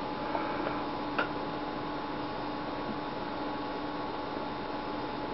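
Steady electrical hum with a faint background hiss, and a single light click about a second in.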